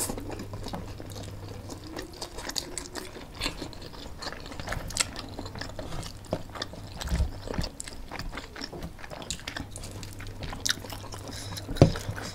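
Two people chewing mouthfuls of spicy noodles close to the microphone, with many short clicks and smacks.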